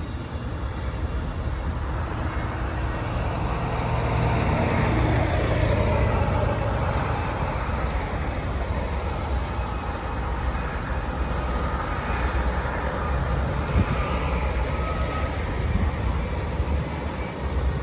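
Steady, loud low rumble of a heavy vehicle passing, swelling about four seconds in with a falling whine around five seconds.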